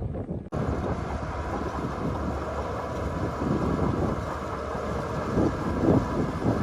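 Heavy earthmoving machinery running with a diesel engine rumble, mixed with wind buffeting the microphone. The sound breaks off abruptly about half a second in, then carries on steadily.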